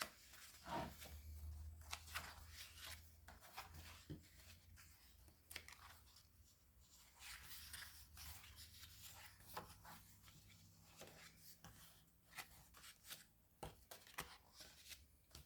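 Faint, intermittent rustles and soft clicks of book pages being turned and handled, over a low steady hum.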